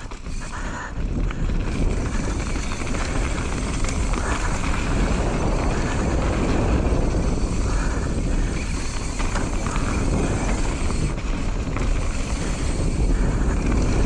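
Steady riding noise of a mountain bike descending a dirt trail: wind rushing over the camera microphone with the tyres running over the ground.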